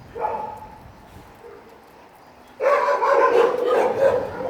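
A dog vocalising: a short yelp just after the start, then, from a little past halfway, a loud sustained whining call that wavers and carries on.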